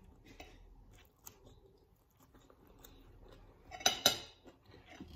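Faint close-up chewing of fried chicken, with two short, sharp clatters about four seconds in.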